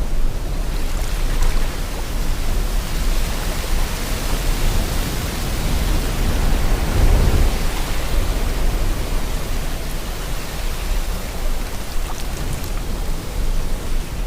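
Steady rushing of sea water and wind, with a deep low rumble and a slow swell near the middle.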